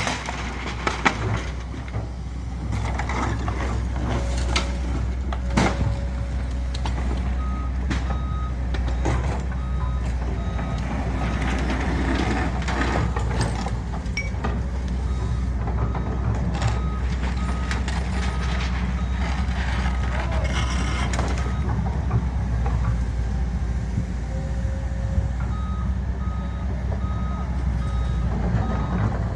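Crushing machine running with a steady low rumble and scattered knocks. A reversing alarm beeps about twice a second for a stretch in the first half and again near the end.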